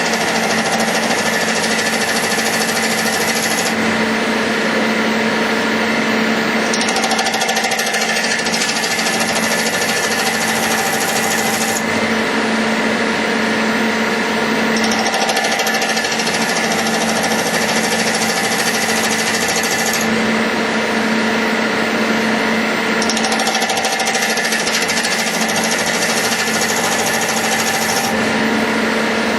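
CNC metal lathe running and cutting: a steady machine hum under a buzzing rattle, with a high hissing layer that comes and goes in a regular cycle about every eight seconds.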